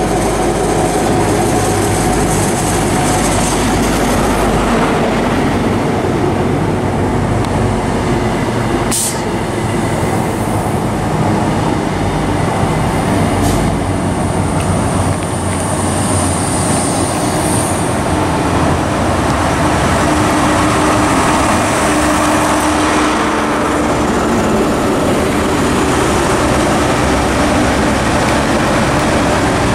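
InterCity 125 High Speed Train passing through at speed: the steady rumble of its coaches' wheels on the rails over the diesel drone of its Class 43 power cars, with one sharp click about nine seconds in.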